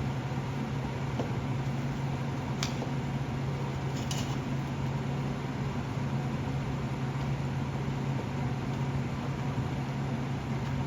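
MIG welder arc running steadily on galvanized exhaust pipe, giving a constant buzzing hiss with a few faint crackles.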